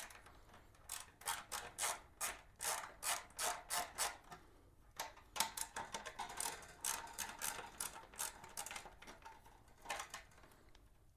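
Hand ratchet clicking in short runs of strokes with brief pauses, loosening the bolts that hold a wheel cover.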